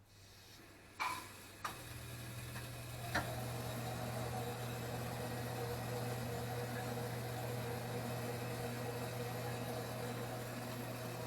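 Bosch gas tankless water heater starting up as water flows through it: three sharp clicks, then a steady low hum with a few steady tones as the unit runs.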